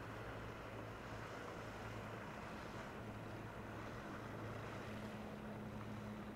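Small ferry boat's engine running steadily, a low hum over wind and water noise. A second, higher engine tone comes in about five seconds in.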